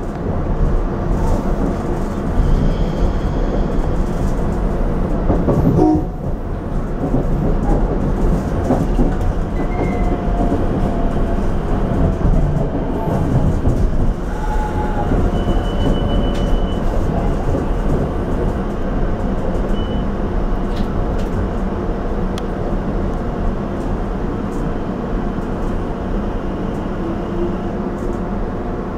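Rotem Silverliner V electric commuter railcar running on the rails, heard from inside the cab end: a steady rumble of wheels and traction equipment. A few brief high-pitched tones come in around the middle.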